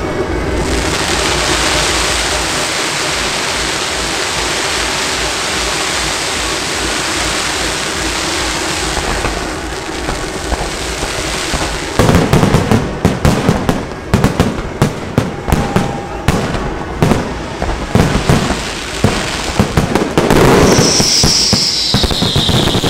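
Fireworks going off: a dense, steady crackling hiss for about twelve seconds, then a rapid, irregular barrage of loud sharp bangs. Near the end a high whistle falls in pitch.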